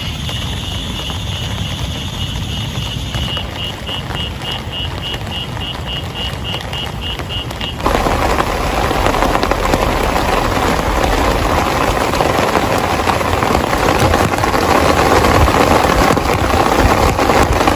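A steady low rumble with a high chirp that starts pulsing about four times a second, then about eight seconds in heavy rain cuts in suddenly, loud and steady.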